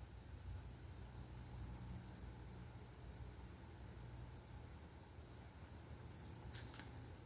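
Faint insect trilling: high, rapid pulsed chirps in bouts of a second and a half to two seconds with short gaps between, over a steady low hum. A couple of sharp clicks come near the end.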